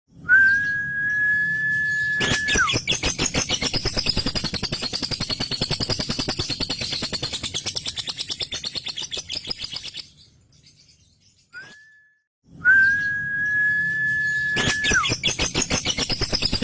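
Male lovebird's 'ngekek' song: a long, rapid rattling chatter lasting several seconds, stopping, then starting again. Each run of chatter is preceded by a single steady high whistled note held about two seconds that drops off at its end.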